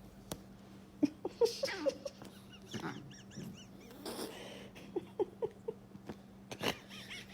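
Short, squeaky animal calls in quick clusters, with a few high chirps and some sharp knocks.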